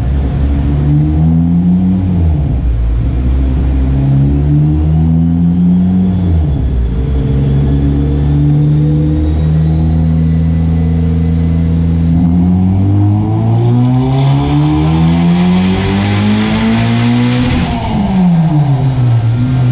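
Turbocharged 2015 Honda Civic Si's 2.4-litre four-cylinder running on a chassis dyno during tuning. It revs up and down briefly and holds steady engine speeds, then a little past the middle it makes a full-throttle pull that climbs in pitch for about six seconds with a hiss building on top. Near the end the revs drop off sharply.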